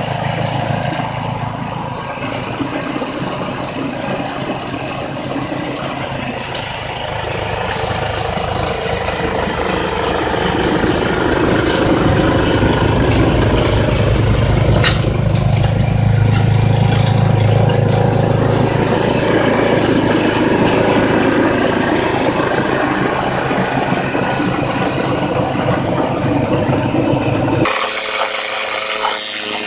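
Ariens gas snowblower engine running steadily under load, growing louder through the middle. The low engine sound drops out suddenly near the end and a different, higher mechanical sound takes over.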